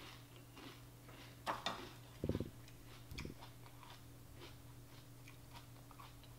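A person chewing a mouthful of Frosted Flakes and Froot Loops cereal in milk, with faint crunching throughout and two louder crunches about a second and a half in. A short low sound follows just after two seconds.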